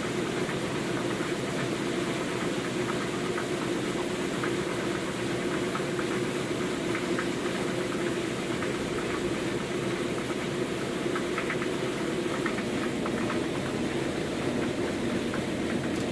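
Maytag MVWC465HWO top-load washing machine in its spin cycle: a steady motor hum with faint scattered ticks. It runs fairly quietly.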